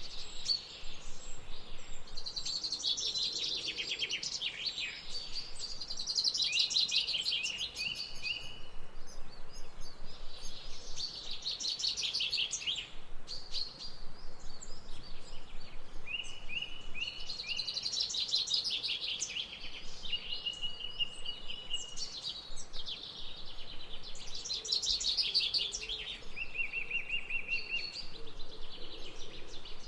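Songbirds singing and chirping in a dense, overlapping chorus, with short high trills recurring every few seconds.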